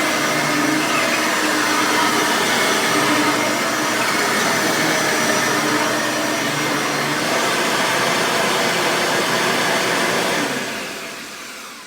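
Bissell 9-amp soft-bag upright vacuum cleaner running steadily, then switched off near the end, its motor winding down.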